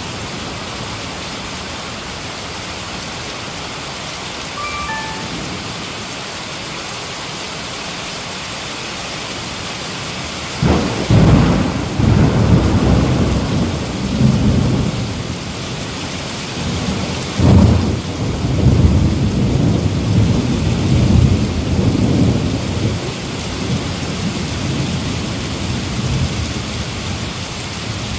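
Heavy rain falling steadily, with two thunderclaps, about ten and seventeen seconds in, each followed by several seconds of rolling rumble.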